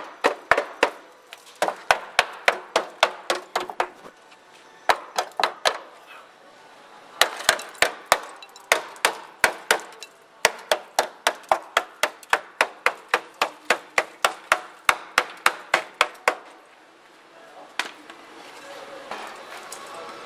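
Hammer striking car-body sheet metal in quick runs of sharp, ringing blows, about three a second, with short pauses between the runs.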